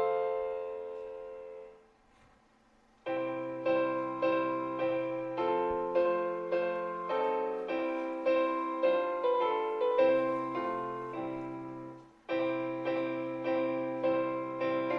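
Background music: a hymn played on piano in slow block chords. A held chord fades out, about a second of silence follows, and the playing resumes about three seconds in, with a short break near the end.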